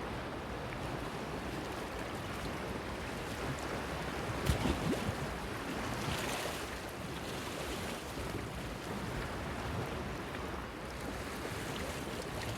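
Sea waves washing against a breakwater pier, a steady wash with one louder splash about four and a half seconds in and another surge soon after.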